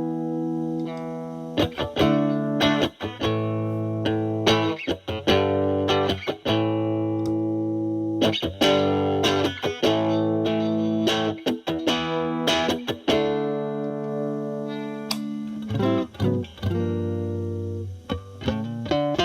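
Electric guitar (Fender Stratocaster) played through a Boss DS-2 Turbo Distortion pedal in turbo mode off with the distortion knob at minimum, into the clean channel of a Marshall Valvestate amp: lightly driven picked chords and notes, several of them held and left ringing for a second or two.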